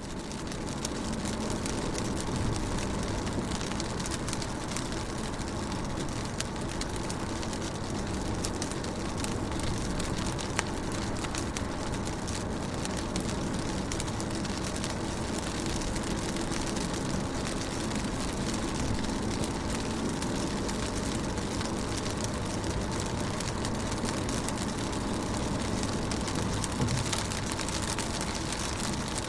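Rain falling steadily on a car's window and bodywork: a continuous patter full of separate drop taps over a low rumble. It fades in at the start.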